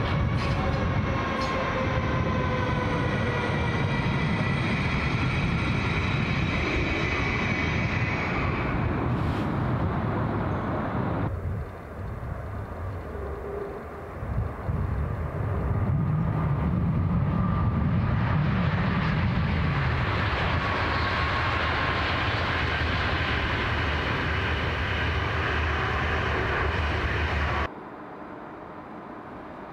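ICE high-speed electric trains running. First, one rolls into a station as its motor whine slowly falls in pitch while it slows. After a cut, a train rushes past at speed with a falling whine. Near the end the sound drops to a quieter station hum as another ICE approaches.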